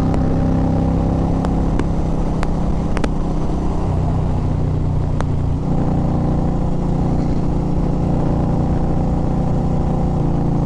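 Motorcycle engine running steadily at riding speed, heard from on the bike. Its pitch steps down about four seconds in and comes back up near six seconds, then holds steady.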